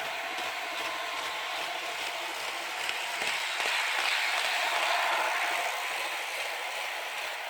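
Brawa H0-scale ET 425 model electric train running, a steady mechanical rolling and gear noise with a faint whine from its onboard sound decoder, swelling louder around the middle.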